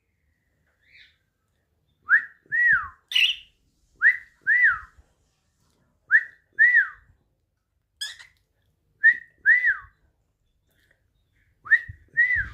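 Budgerigar whistling a repeated two-note phrase, each note rising then falling, about every two seconds, with a couple of short harsh squawks between.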